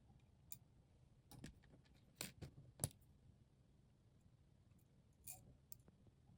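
A few faint, scattered clicks and taps of small hard parts being handled, the loudest about three seconds in, over near silence.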